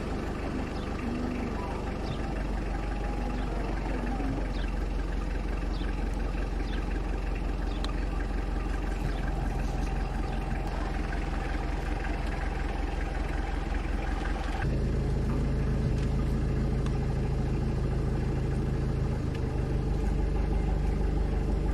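A motor vehicle's engine running steadily. About 15 seconds in, its note changes suddenly and the low hum gets louder.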